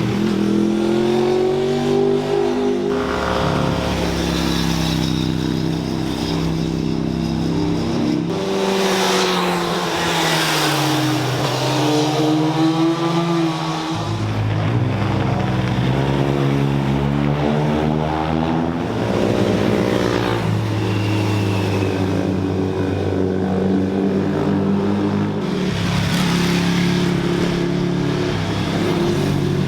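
Sports cars and sports motorcycles running through a corner one after another, engines easing off and then revving up again as they accelerate out, with the sound changing abruptly between passes.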